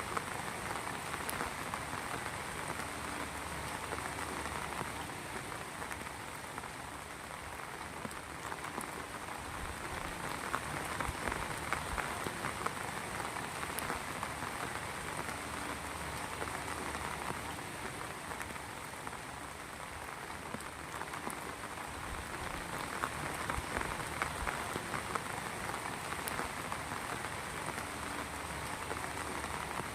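Steady heavy rain falling and pattering on surfaces, a dense even hiss of drops with occasional sharper single drop ticks.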